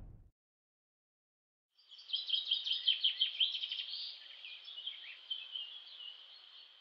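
Small birds chirping and twittering, a busy run of short, high calls that starts about two seconds in and thins out toward the end.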